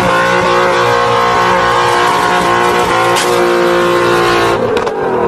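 A car engine running loud at high, steady revs, with its pitch starting to fall near the end.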